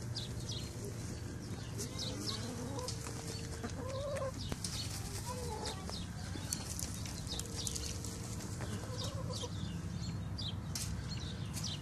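Hens clucking, with low wavering drawn-out calls about two seconds in and again in the second half, over many short high falling chirps and a steady low hum.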